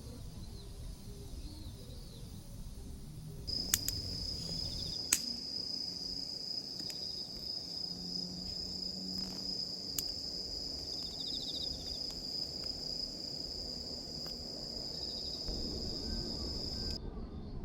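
Crickets trilling: one steady high-pitched trill that starts abruptly a few seconds in and cuts off suddenly near the end, with a few sharp clicks along the way.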